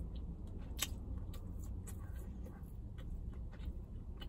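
Quiet chewing of a fried chicken biscuit: soft, scattered mouth clicks, over a steady low hum.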